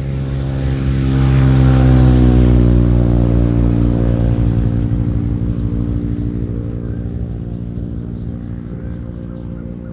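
A motor vehicle's engine running as it passes by. It grows louder to a peak about two seconds in, drops slightly in pitch, then slowly fades away.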